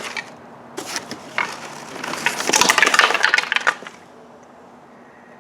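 Stuck-together holiday decorations being pried apart: scattered cracks and clicks, then a dense crackling for about a second and a half around the middle that stops suddenly.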